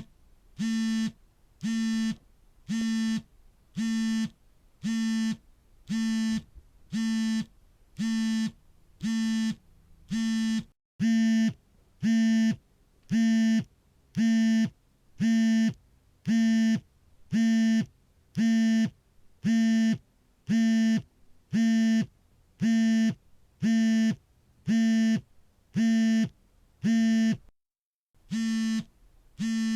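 Smartphone vibrating for an incoming call: a buzz of about half a second repeating roughly once a second. The buzzing breaks off briefly about eleven seconds in and again near the end, and is louder after the first break.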